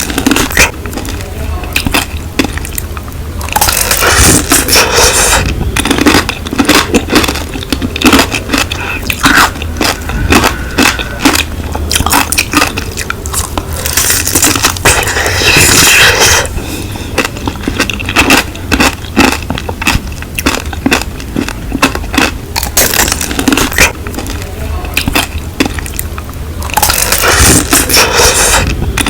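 Close-miked eating sounds of strawberries being bitten and chewed: irregular wet crunches and squishy mouth noises throughout, louder in a few stretches.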